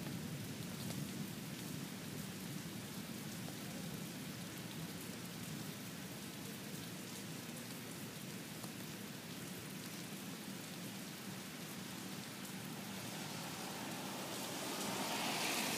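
Steady rain falling, a continuous hiss of many drops with scattered individual drop ticks; it swells a little near the end.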